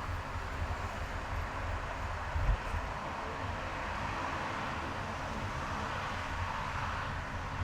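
Car driving on a highway: steady road and tyre noise with a low engine rumble, and a short low thump about two and a half seconds in.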